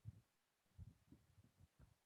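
Near silence, with a few faint, short low thuds.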